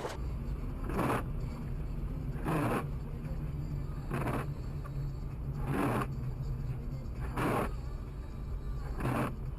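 Steady low rumble of a car driving, with a short swishing scrape repeating evenly about every second and a half.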